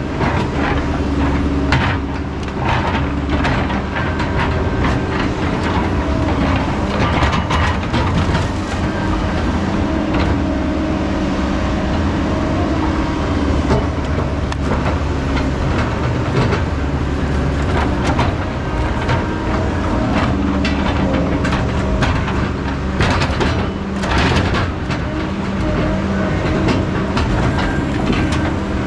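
Heavy logging machine's diesel engine running steadily, with frequent sharp knocks and clanks.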